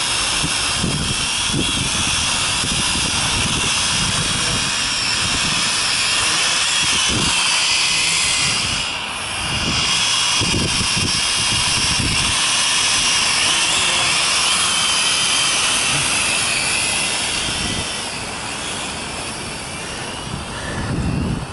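Small quadcopter drone's propellers whining in flight, the pitch wavering as it is steered, fading briefly about nine seconds in and coming back. Gusts of wind buffet the microphone underneath.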